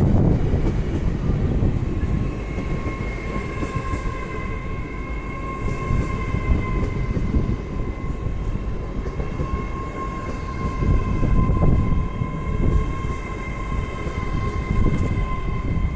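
Class 800 train arriving at the platform: a steady rumble from the train with a high, steady whine made of several tones that sets in about a second in and holds on.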